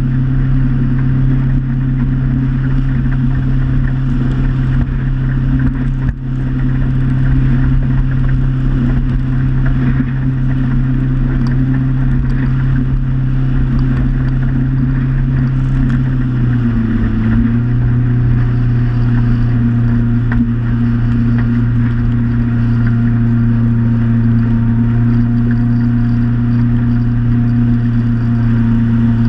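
Motorboat engine running steadily at cruising speed, a constant drone with water and wind noise under it. About seventeen seconds in the engine note drops slightly and settles at the lower speed.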